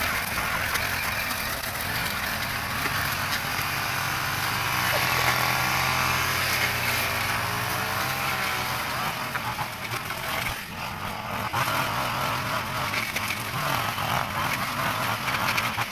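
A vehicle engine running, its pitch bending for a few seconds in the middle.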